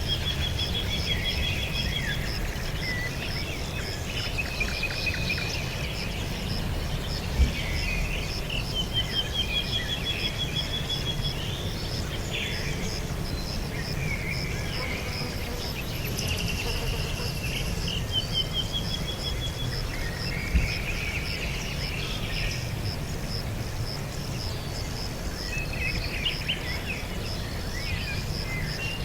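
Several songbirds singing and calling, one repeating a quick rising run of notes every several seconds, over a steady pulsing insect trill and a low background rumble. Two brief knocks stand out, about a quarter of the way in and about two-thirds of the way in.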